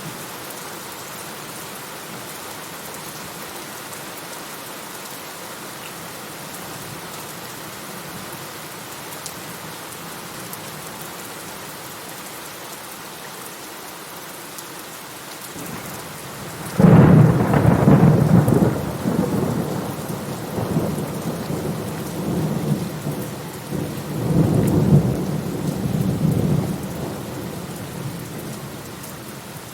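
Steady rain falling, with a sharp clap of thunder a little past the middle that rolls and rumbles for about ten seconds, swelling once more before it fades.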